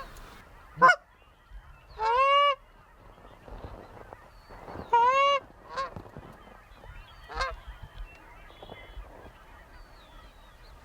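Canada geese honking: five loud honks, two drawn out about 2 and 5 seconds in and three short ones, with fainter honks in between.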